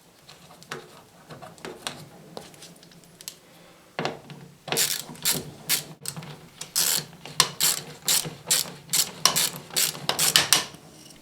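A ratchet working the fridge's hinge bolt, clicking quietly at first and then in a rapid run of loud strokes from about four seconds in, over a low steady hum.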